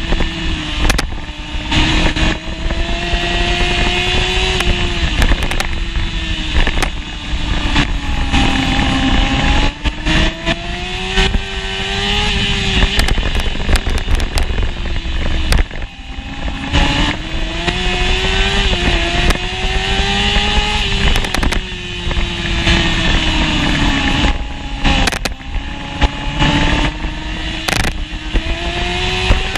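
1988 Honda CBR600F1's inline-four engine racing at full throttle, recorded onboard, its pitch climbing through each gear and falling back again and again as the bike accelerates and brakes.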